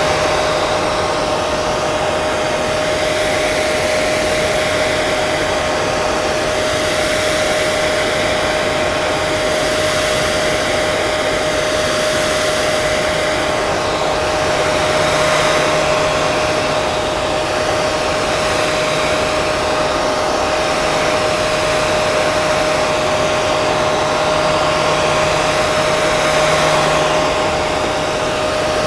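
Hair dryer running steadily: an even rush of blown air with a constant high whine from the motor and fan.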